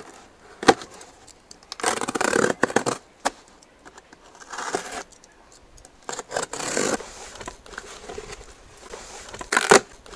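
Parcel packaging being cut and torn open: several bursts of tearing and crackling, with sharp clicks about a second in and a louder snap near the end.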